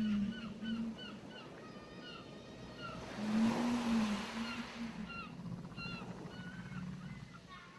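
Surf washing on a beach with small birds chirping in quick repeated notes. Twice a whale's low moan rises and falls in pitch, each followed by two shorter calls, the second with a louder wash of surf.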